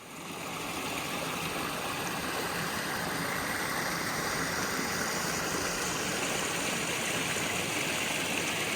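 Steady rushing of flowing creek water, fading in at the very start.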